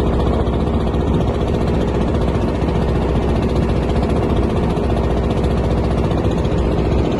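Motorboat engine running steadily at a constant pace.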